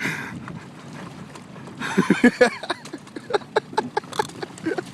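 Pelicans clambering over a small open fishing boat, making irregular knocks and clatter. A brief voice-like sound comes about two seconds in.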